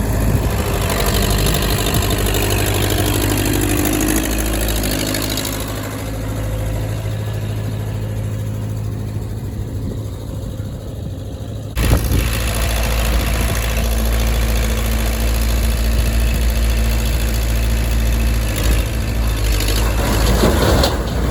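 Heavy loading machine's engine running steadily under work, with a sudden change in the sound about twelve seconds in.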